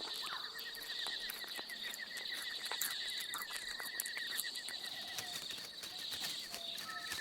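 Night insects trilling in a steady, pulsing chorus, with scattered faint clicks and crackles.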